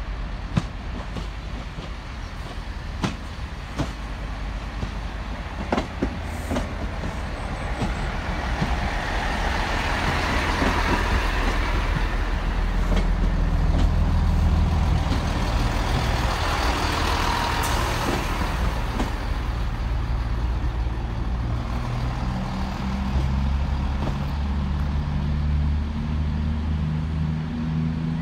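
A diesel multiple unit running along a station platform: a rising wheel-on-rail rush that peaks twice as the carriages pass, with the low steady throb of underfloor diesel engines growing through the second half. A few sharp clicks sound in the first several seconds.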